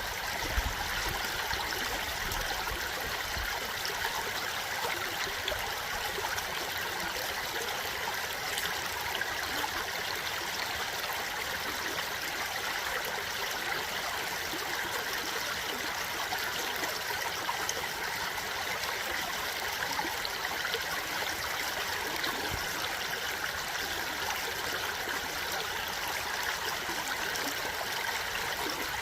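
Stream water flowing steadily, a constant even rush and trickle.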